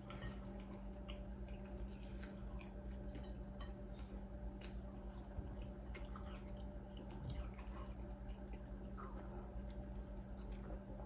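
A person chewing fries and a fried chicken sandwich, with small wet mouth clicks scattered throughout, over a faint steady low hum.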